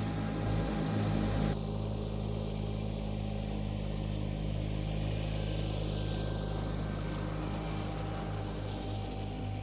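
John Deere 318 lawn tractor, with its twin-cylinder Onan engine, running steadily under load while mowing and mulching leaves.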